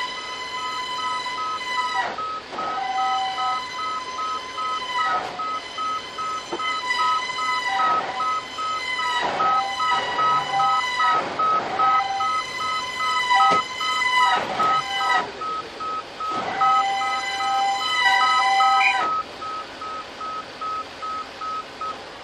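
Vehicle reversing alarm beeping steadily, about two to three beeps a second, under a louder sustained horn-like tone that sounds in long blasts, breaking off and restarting several times and stopping a few seconds before the beeping ends.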